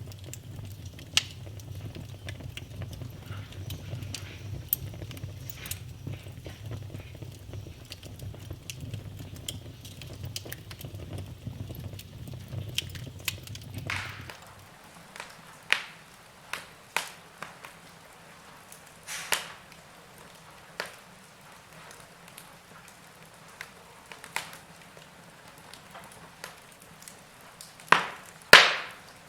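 Wood fire crackling and popping in a fireplace. A low rumble under the crackle stops abruptly about halfway, after which the pops come sparser and sharper, the loudest two near the end.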